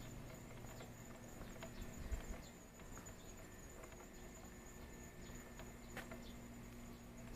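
Faint, steady high-pitched insect trill, like a cricket, holding one unbroken note, with a few soft scattered clicks.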